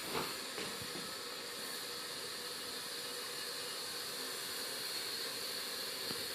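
Steady faint hiss with a few soft knocks, one just after the start and one near the end.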